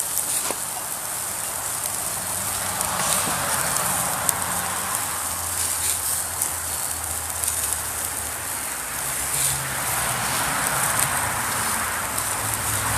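Wood-and-charcoal cooking fire crackling, with a steady hiss and scattered sharp pops.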